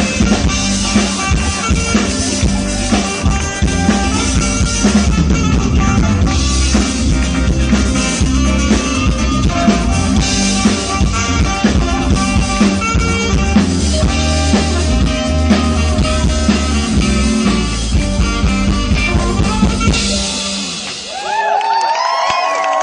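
Live rock band playing with drum kit, bass and guitar, the full band driving a steady groove. The music stops about twenty seconds in, and a voice follows near the end.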